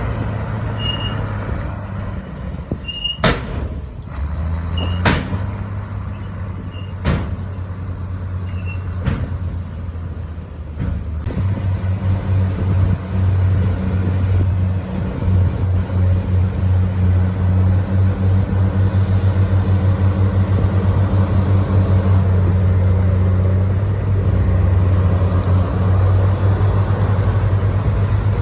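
A bulldozer's diesel engine runs steadily, with sharp metallic knocks about every two seconds over the first ten seconds. From about twelve seconds in, the engine works harder and louder with a pulsing beat.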